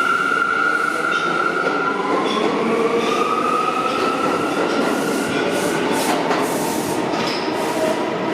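New York City subway train running on the Concourse Line tracks, with high-pitched squealing tones over the rumble of the cars. A steady squeal fades out about two seconds in, and a second whine rises in pitch over the next few seconds.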